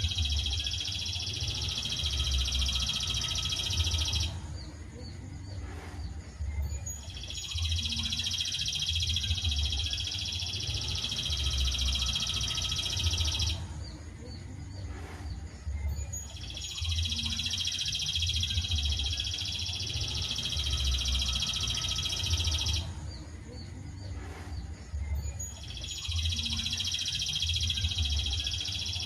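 Looped masteran songbird-training recording: a high, steady, unbroken trill that runs for about six seconds, stops for about three, and starts again, four times over.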